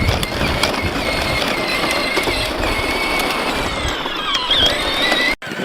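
Peg Perego John Deere electric ride-on toy tractor driving, its motor and gearbox giving a steady, slightly wavering high whine over a rough rumble. The sound cuts off suddenly near the end.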